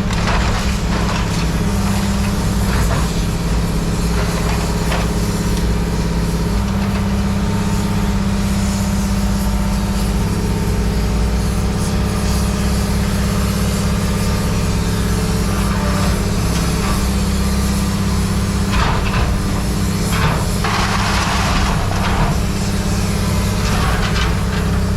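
A steady engine drone. In the second half come a few short metallic clanks and scrapes.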